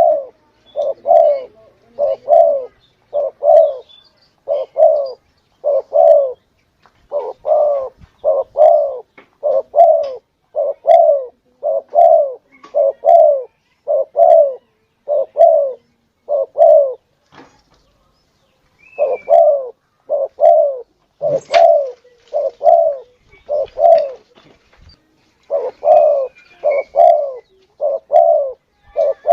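Spotted dove cooing over and over in short, evenly spaced coo notes about once a second, with a break of about two seconds midway. It is a lure call used to draw in wild spotted doves.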